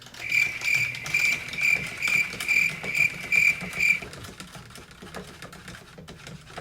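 Metal spoon stirring hot chocolate in a ceramic mug. It clinks against the side about twice a second for four seconds, the mug ringing with each stroke, then softer scraping and small clicks.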